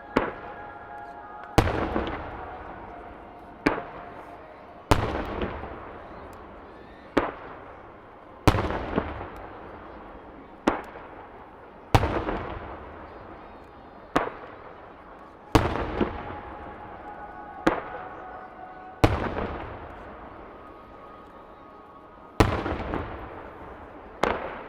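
Aerial firework shells bursting in steady succession, about one sharp bang every one and a half to two seconds, each trailing off in a long rolling rumble.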